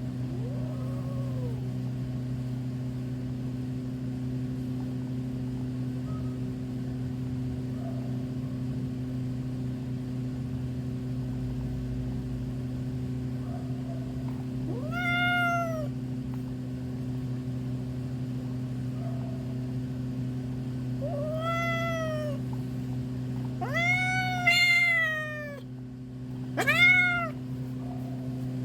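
Domestic cat meowing about five times, spaced out, each call rising then falling in pitch, the loudest near the end, over a steady low hum.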